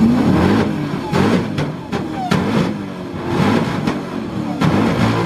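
Supercharged 7-litre LSX V8 with a 4-litre Whipple blower being free-revved hard in neutral, several times over, its pitch climbing and dropping with each rev, with sharp cracks from the exhaust between revs.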